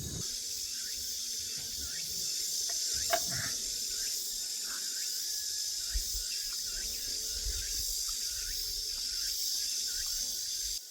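A steady, high-pitched outdoor insect drone, typical of summer insects such as cicadas, with two faint clicks about 3 and 6 seconds in.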